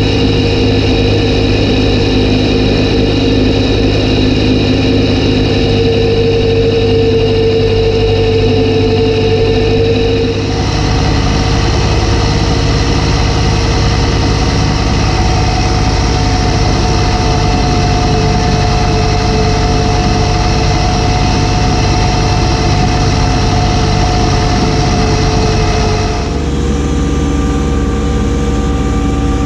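Kubota B2601 compact tractor's three-cylinder diesel engine running steadily with its B2782B front snowblower, with steady tones over the engine note. The sound changes abruptly twice, about ten seconds in and near the end.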